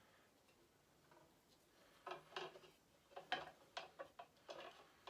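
Small hard clicks and taps of statue pieces being handled and fitted together, starting about two seconds in after a quiet spell, irregular and faint.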